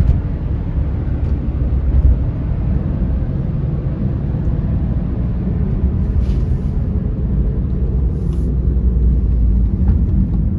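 Steady low rumble of a 2008 Smart ForTwo Passion being driven, heard inside the cabin: engine and road noise.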